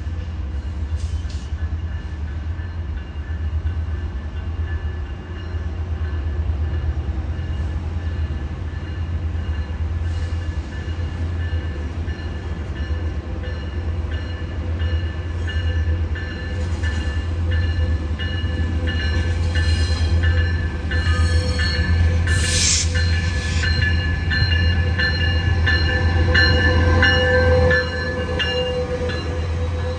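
A Metrolink diesel locomotive hauling bilevel coaches comes around a curve and passes close by. A steady low engine rumble runs under high, steady wheel squeal, and both grow louder as the train nears. A brief sharp squeal comes about two-thirds of the way through, and the sound drops off just before the end as the locomotive goes by.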